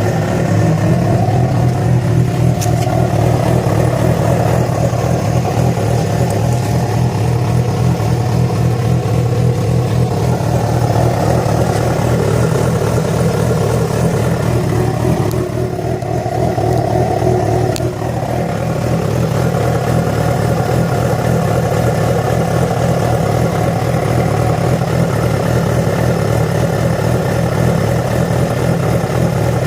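Yamaha FZ6 inline-four engine running steadily, with small shifts in pitch about a second in and around the middle. It has an unexplained strange noise that began after the bike was ridden about 70 km on two cylinders because of a failed ignition coil connector.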